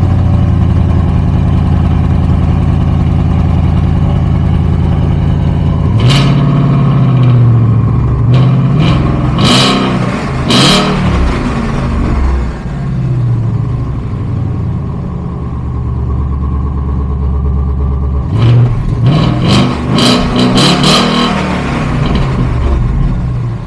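Ford Mustang GT V8 exhaust with the resonator deleted and the factory mufflers still fitted, idling steadily and blipped in short revs: once about 6 seconds in, several times a few seconds later, and again in a cluster near the end before settling back to idle.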